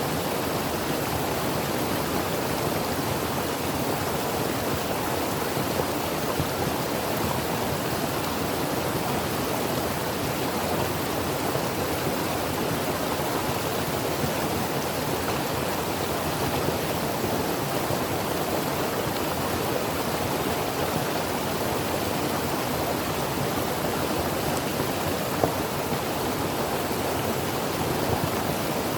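Creek water flowing over rocks, a steady rushing with small splashes, even throughout.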